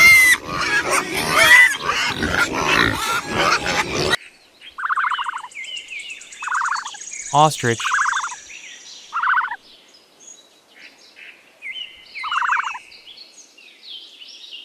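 Pigs grunting and squealing together for about four seconds, ending at an abrupt cut. Then wild birds call: short trilled calls repeated every couple of seconds, with higher chirps in between.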